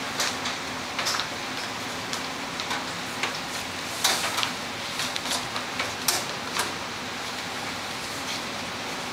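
Ink brush scratching and swishing on paper in short, irregular strokes, over a steady hiss and faint hum.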